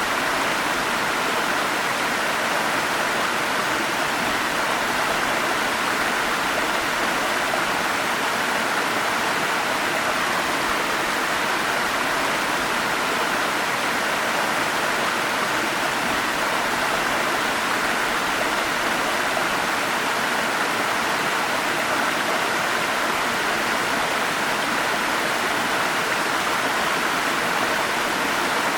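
Forest stream flowing over small falls: a steady, even rush of water.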